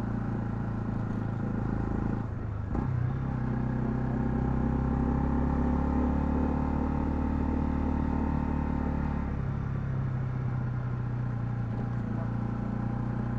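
Honda CL250's single-cylinder engine running steadily under way on the road. The engine note dips briefly about two seconds in, settles into a different steady pitch, then changes again about nine seconds in.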